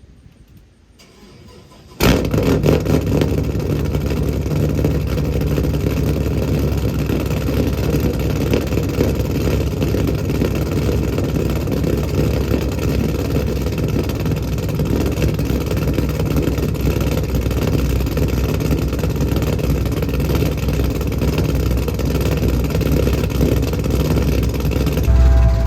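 Chevrolet Camaro SS V8 cold start: the engine fires about two seconds in with a sudden loud start, then settles into a steady, loud idle.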